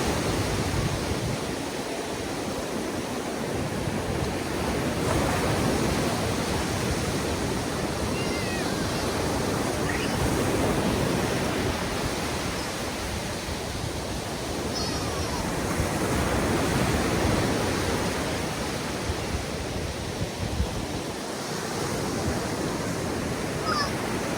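Ocean surf breaking on a sandy beach: a steady wash of waves that swells and falls back every several seconds.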